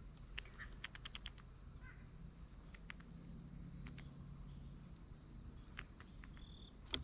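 Faint, steady high-pitched chorus of crickets, with a few sharp clicks about a second in and a brief high note near the end.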